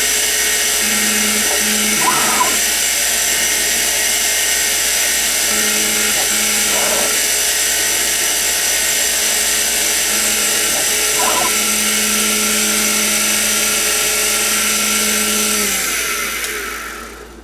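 Sieg X2 mini-mill's spindle motor running with a steady high whine and hiss, while a lower tone comes and goes several times. Near the end the spindle winds down, falling in pitch, and stops.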